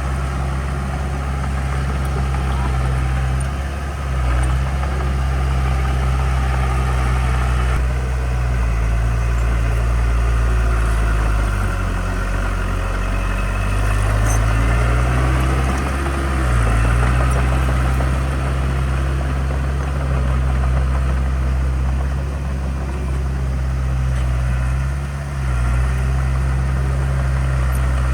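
Heavy diesel engine of earthmoving equipment running steadily under load. Its pitch sags and recovers briefly a few times, with the longest dip about halfway through.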